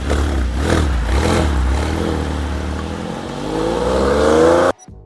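Porsche 911 flat-six engine revving: several quick throttle blips, then a long, steady climb in revs that cuts off suddenly near the end.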